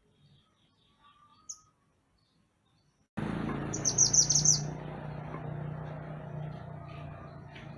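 Mantenan gunung singing: one short high call, then after a sudden change in background a quick run of about eight high, bright chirps, followed by quieter song over a steady low hum.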